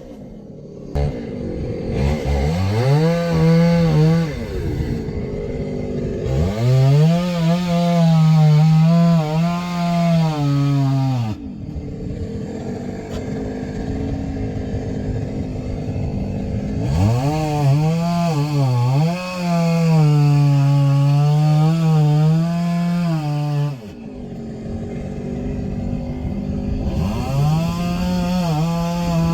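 Chainsaw revving up and cutting through logs four times. Each time the engine rises to full throttle, its pitch wavers under load for a few seconds, then it drops back to idle before the next cut.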